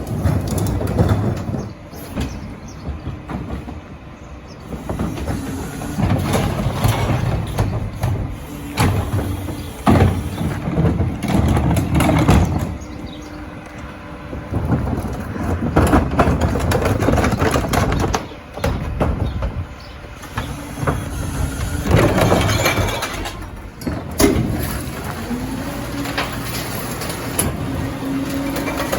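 Heil Dura-Pack rear-loader recycling truck at work: recyclables crashing and clattering into the hopper as carts are tipped, over the truck's engine running. The crashes come in repeated loud bursts with quieter gaps between.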